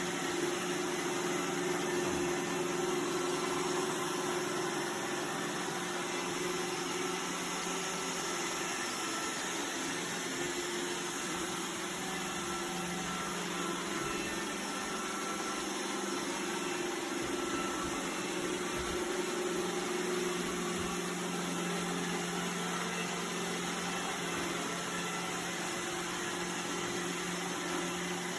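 Robot vacuum cleaner running: a steady motor hum with a few fixed tones over an even hiss, wavering slightly now and then.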